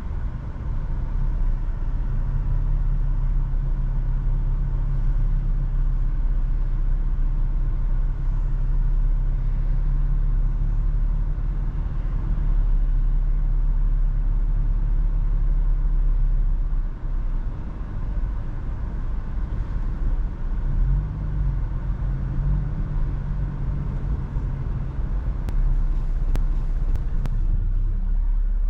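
Toyota FJ Cruiser's V6 and tyres giving a steady low road rumble while driving at speed, its engine tone dropping about two-thirds of the way in and briefly rising a few seconds later. A few sharp clicks come near the end.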